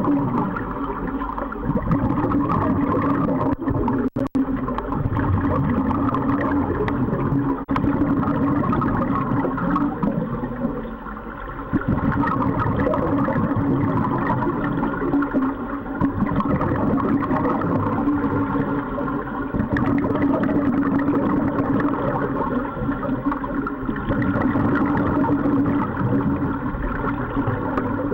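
Steady underwater rumble in an aquarium tank during a dive, with a constant low hum and gurgling water.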